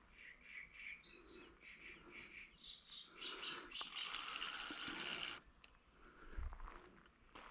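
Birds calling: a run of short, evenly repeated calls, then a denser, louder burst of song for about two seconds midway, fairly faint overall.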